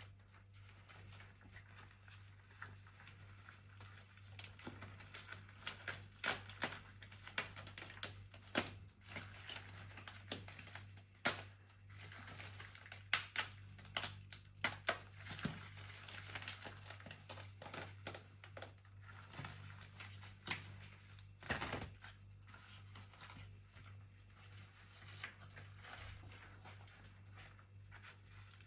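Close-up household handling sounds: rustling and crinkling with many scattered sharp clicks and taps, over a steady low hum.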